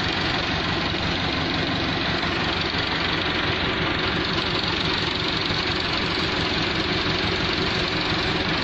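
Diesel tractor engine running steadily, with a fast even pulsing and no change in speed.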